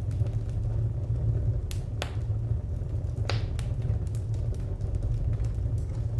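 Wood fire crackling: frequent small pops and a few sharper snaps, the loudest about two and three seconds in, over a steady low rumble.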